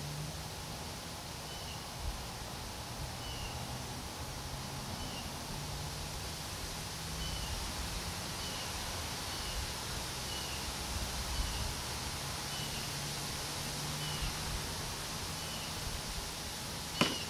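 A bird repeating one short, slightly falling high chirp about once a second over steady outdoor background hiss, with a sharp click at the very end.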